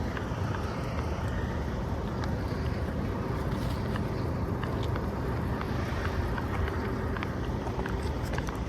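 Diesel truck engine idling: a steady low rumble, with a few faint ticks over it.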